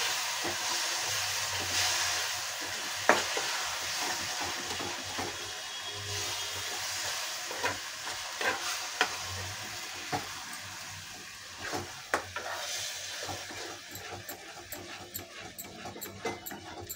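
Hot sugar syrup poured into roasting mawa in a kadhai, sizzling, while a metal spatula stirs and scrapes, with scattered clicks and knocks against the pan. The sizzle slowly dies down as the syrup is absorbed.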